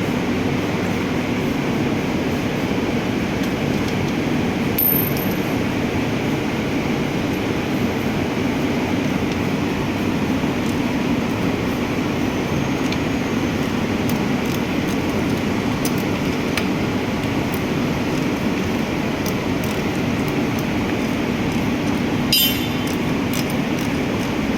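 Steady low rumbling hum with a few light metallic clinks of hand tools on engine parts; the loudest, a short ringing clink, comes near the end.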